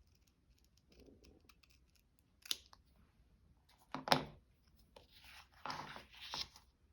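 Scissors cutting paper: a few separate snips, the loudest about four seconds in, then a run of cuts near the end.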